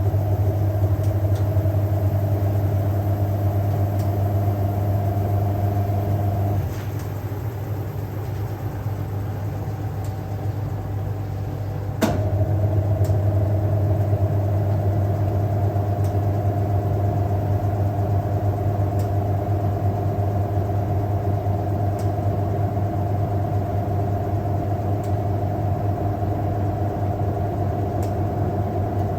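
Hoover 1400 top-loader washing machine's motor running with a steady hum. It cuts out about seven seconds in and starts again with a sharp click about twelve seconds in, then runs on steadily.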